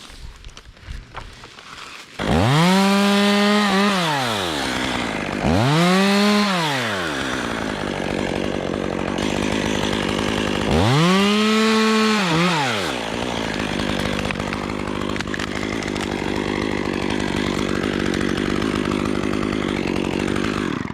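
Chainsaw being revved up to full speed three times, each rev rising, holding and falling back. Between revs it runs steadily at a lower speed, and it shuts off near the end.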